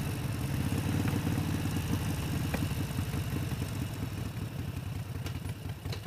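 Harley-Davidson Sportster Seventy-Two's 1200 cc V-twin engine running as the motorcycle rides along, a steady, pulsing low rumble under a faint rush of noise, easing off a little in the last couple of seconds.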